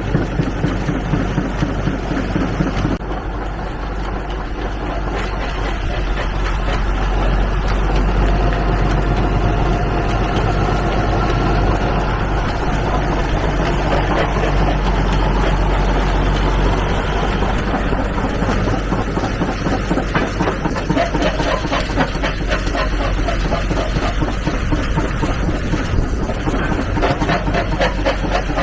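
Oliver six-cylinder tractor engine running steadily, driving a vintage rock crusher, with a rapid mechanical clatter over the engine drone.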